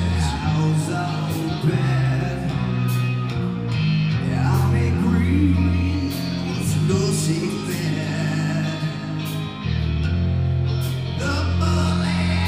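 Live rock band playing: electric guitars over a heavy bass line, with drum and cymbal hits at a steady beat and a singer's voice.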